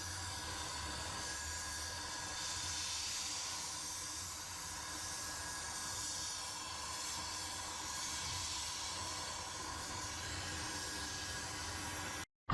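A steady hiss with a faint low hum beneath it, stopping abruptly near the end.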